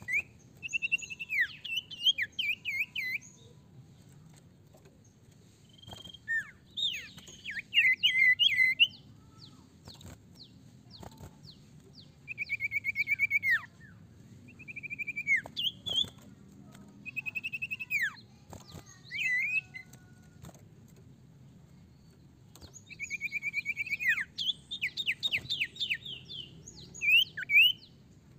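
Common iora (sirtu, cipoh) singing in bouts of rapid chattering trills and short whistled notes, about six phrases with pauses of a few seconds between them.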